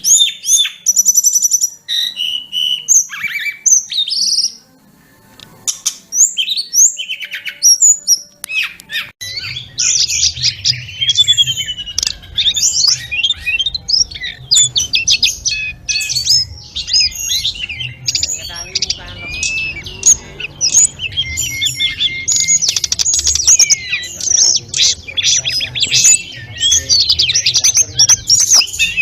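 A tledekan gunung (sulingan gunung) songbird singing a fast, varied chattering and whistling song packed with quick high chirps and trills, with barely a pause. From about nine seconds in, a low hum runs underneath.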